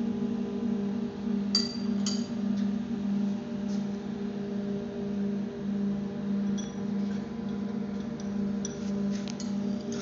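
Impact pulverizer grinder running: a steady low hum that pulses slightly, with scattered short, sharp clinks now and then.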